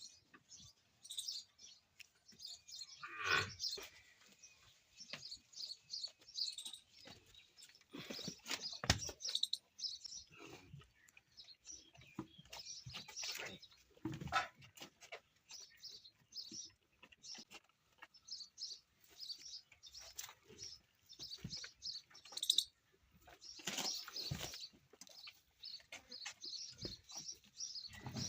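Small birds chirping in short, high calls again and again, with a few scattered knocks.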